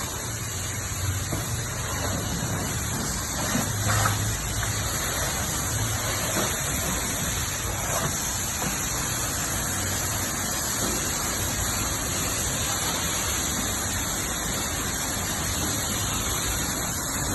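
Car wash running: a steady rushing hiss of water spray with a low hum underneath.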